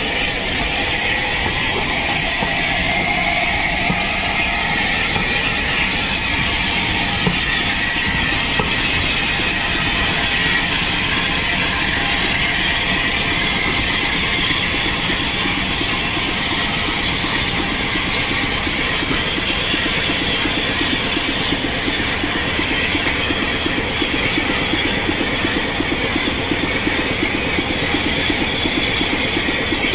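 Railway train running, a steady mechanical clatter and rattle under a high hiss, without let-up.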